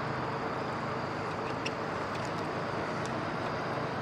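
Steady noise of a boat's motor running with water and wind, a faint even hum beneath, and a few light ticks.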